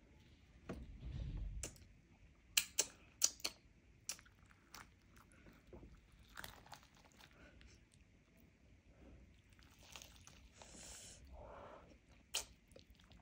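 A person eating close to the microphone: chewing and biting, with a quick run of sharp crunches about two and a half seconds in and another near the end.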